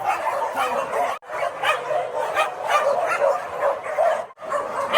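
Many dogs barking and yipping at once, a dense chorus of overlapping barks from a large pack of shelter dogs, cut off briefly twice.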